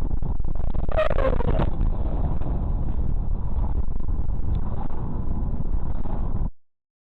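Dash-cam recording of a moving car: steady low road and engine rumble, with a brief higher-pitched sound about a second in, cut off abruptly near the end.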